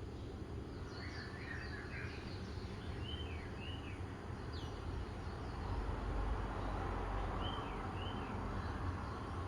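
Several birds chirping, with a pair of short falling calls heard twice, over a steady low background rumble that swells a little in the middle.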